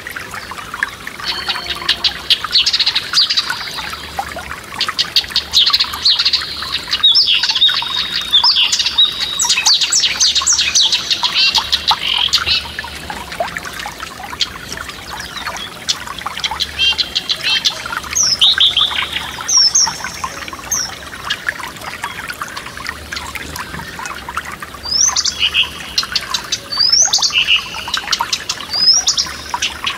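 Forest stream trickling and splashing steadily over stones, with songbirds singing over it: rapid trilled phrases through the first dozen seconds, then shorter whistled and rising notes in the second half.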